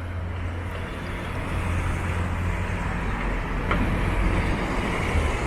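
Downtown street traffic: a motor vehicle's engine rumbling low and steady, growing gradually louder, over the hiss of the road.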